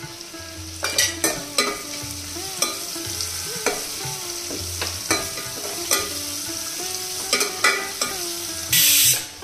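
Sliced onion, garlic, chillies and curry leaves sizzling in hot oil, the tempering (tadka) for kadhi. A spatula stirs them, knocking and scraping against the pot about once a second, and there is a short loud hiss near the end.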